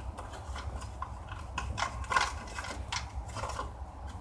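Irregular metallic clicks and clanks of hand tools and parts being handled while a camper water heater is taken out, the loudest about two seconds in, over a steady low hum.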